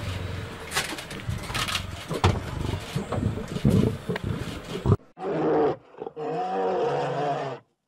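A male lion roaring, rough and noisy, for about five seconds; then, after an abrupt cut, an American bison gives two low, drawn-out grunts, the second longer.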